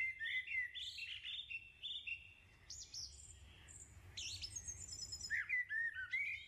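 Songbirds chirping and whistling in short sliding notes, with quick runs of repeated notes.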